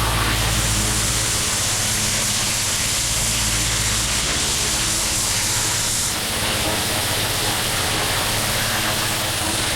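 Pressure washer running steadily while its high-pressure spray hisses against the patio pavers, blasting out the joints. The sharpest part of the spray hiss drops away about six seconds in, and the engine keeps running.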